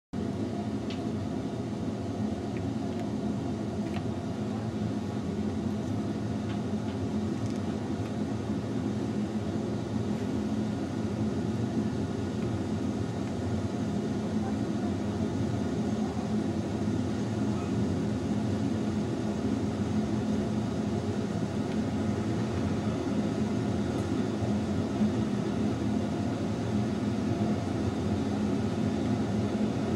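A Rhaetian Railway metre-gauge train running, heard from on board at its rear: a steady rumble of wheels on rails with a low, even hum and a few faint clicks.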